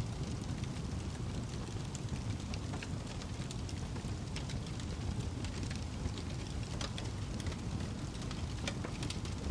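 Wood fire crackling: a steady low rumble of flames with frequent small, irregular pops and snaps.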